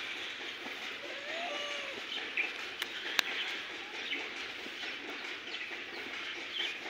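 Outdoor ambience of birds calling, a few faint calls over a steady background hiss, with two sharp clicks a little under halfway through.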